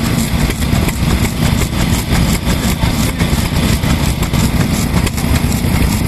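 Vintage Japanese stationary kerosene engine running steadily, with a fast, even exhaust beat.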